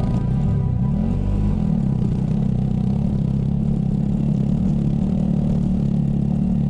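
Motorcycle engine running under way; its pitch shifts during the first second and a half, then holds steady.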